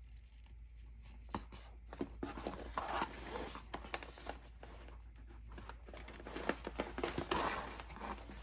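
Close-up handling noise: irregular rustling and crinkling with scattered small clicks and taps as hands work on the model airplane's servo leads and receiver.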